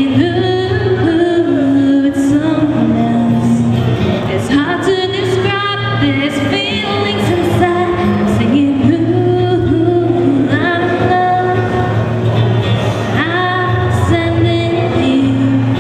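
A pop song played live: a singer's voice carries the melody over a band, with a steady bass and cymbal hits.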